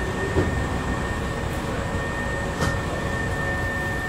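Hankyu 3300-series resistance-control electric train heard from inside the car: a steady rumble and hum with a thin steady whine over it, and one short click about two and a half seconds in.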